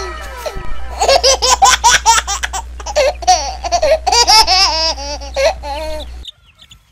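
A young child laughing: a quick run of rising-and-falling giggles over a low hum, cutting off abruptly about six seconds in.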